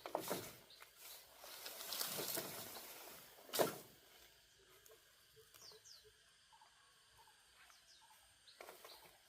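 Rustling and scraping with a sharp knock about three and a half seconds in, then quiet with a few short bird chirps.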